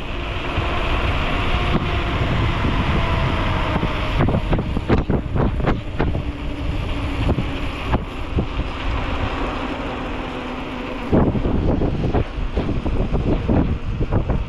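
Wind buffeting the microphone of a camera carried on a moving bicycle, with a steady low rumble. The buffeting eases for a few seconds past the middle, then comes back suddenly.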